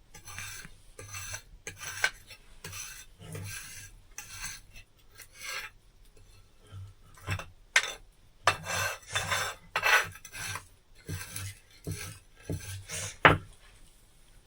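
Repeated rasping scrapes at an uneven pace, one or two a second, with a few sharper knocks, the loudest near the end.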